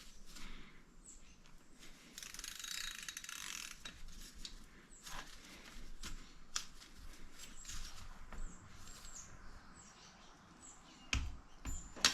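Hand socket ratchet clicking in short runs as bolts are turned in on a small engine, with a couple of louder knocks near the end.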